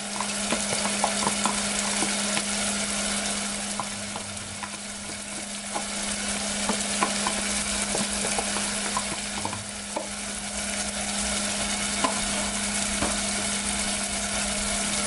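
Onion and spice masala sizzling and frying in a saucepan on an electric stove, a steady hiss full of small crackles and pops as it is fried down. A steady low hum runs underneath.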